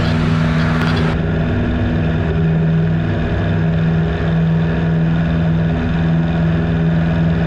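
Piper Super Cub PA-18-150's 150-horsepower Lycoming four-cylinder engine running steadily at climb power just after a floatplane takeoff, with a constant drone. About a second in, a hiss in the upper range drops away.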